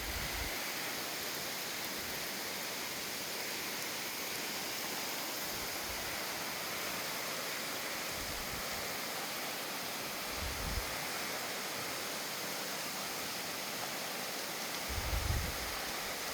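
Steady rush of falling water, an even hiss with no rhythm. A few brief low thumps come through about two-thirds of the way in and again near the end.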